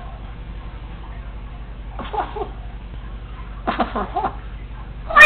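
Congo African grey parrot giving two short mumbled vocal sounds, about two and four seconds in, over a steady low electrical hum. A loud call starts right at the end.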